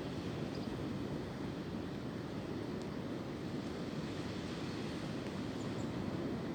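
Steady wind blowing through tree branches, a low even rush with no gusts standing out.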